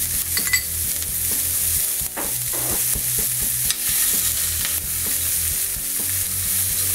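Diced onion and jalapeño sizzling steadily in hot olive oil in a stainless steel skillet, with a metal spoon clinking and scraping against the pan as they are stirred; a quick run of clinks near the start.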